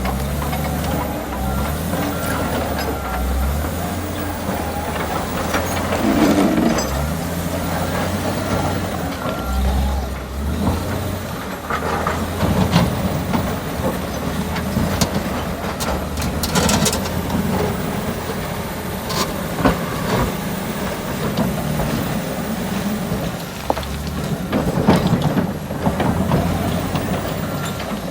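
Komatsu bulldozer's diesel engine working under load, its pitch and level rising and falling, with scattered sharp metallic clanks and scrapes.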